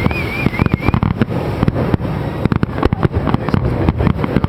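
Fireworks bursting in rapid succession, a dense string of bangs, with a warbling whistle in the first second.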